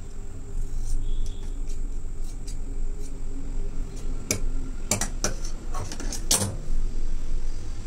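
A few sharp light clicks and taps, clustered between about four and six and a half seconds in, from tailoring tools and fabric being handled on the work surface, over a steady low hum.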